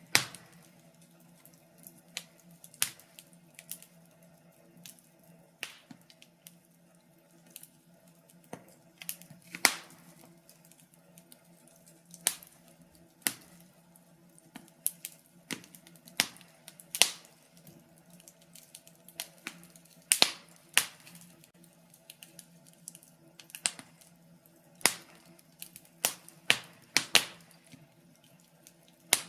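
Fireplace fire crackling: irregular sharp pops and snaps, one to a few a second, some much louder than others, over a faint steady low hum.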